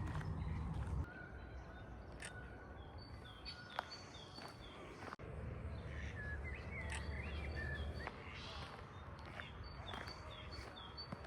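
Small birds chirping in series of short, repeated high notes, over a low outdoor rumble that swells in the first second and again in the middle.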